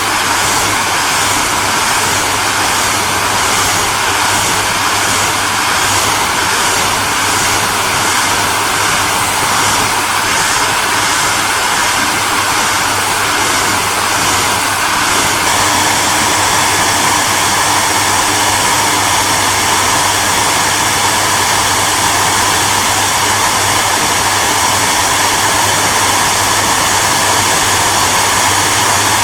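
Hairdryer running steadily: a constant rush of blown air over a low motor hum. About halfway through the sound shifts slightly, a faint regular pulsing in the high end giving way to a smoother, slightly louder rush.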